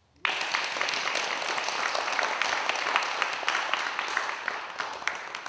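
Audience applauding in a small hall, breaking out suddenly right after a brief silence and thinning out toward the end.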